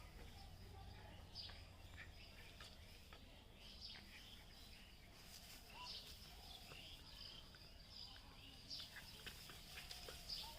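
Faint outdoor ambience: scattered short bird chirps over a steady high-pitched drone.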